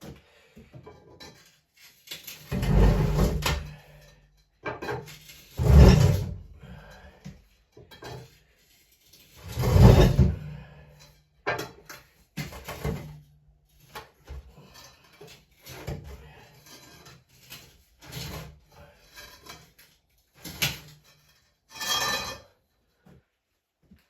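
A South Bend lathe being shoved across the floor: three loud grinding shoves, each about a second long, with lighter knocks and clunks between.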